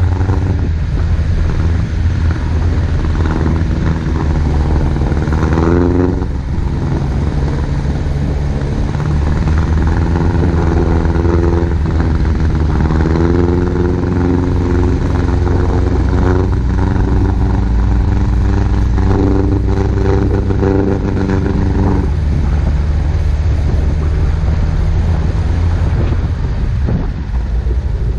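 Off-road 4x4's engine driving on a snow-covered road under a steady low rumble of tyres and drivetrain. The engine note climbs in pitch, drops back about six seconds in, climbs again and holds, then falls away near the end.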